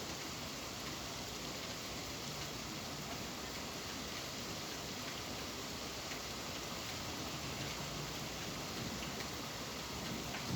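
Steady rain: an even hiss with a few faint drop ticks scattered through it.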